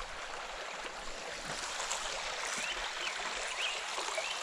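Creek water rushing steadily over a small spillway, with a few faint high chirps in the second half.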